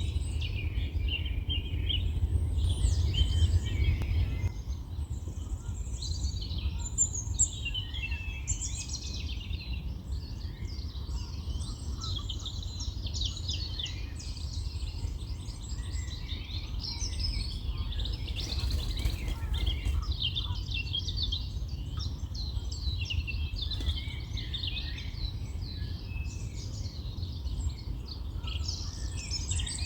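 Several songbirds singing and calling at once, a dense chorus of chirps and trills, over a steady low rumble that is stronger for the first few seconds.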